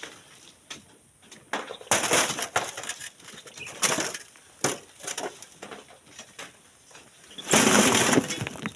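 Loose sand and stones crunching and scraping in irregular bursts, the longest and loudest lasting about a second near the end.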